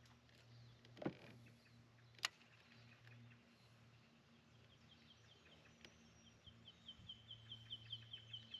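A small bird calling: a fast run of short, high, falling chirps, about five a second, starting about halfway through and growing louder. Two sharp clicks sound about one and two seconds in, over a faint low hum.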